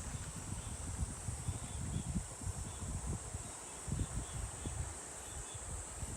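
Insects calling steadily in a high, even band, with faint short chirps repeating every half second or so, over an uneven low rumble.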